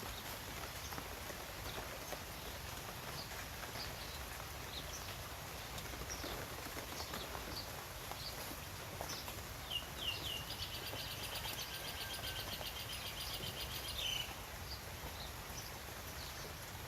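Outdoor ambience with a steady background hiss and scattered short, high bird chirps. About ten seconds in, a rapid, evenly pulsed high trill runs for about four seconds.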